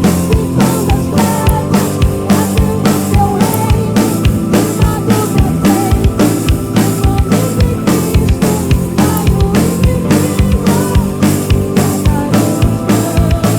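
Live band playing an instrumental passage: drum kit keeping a steady beat over bass, keyboards and guitars, with a melodic lead line.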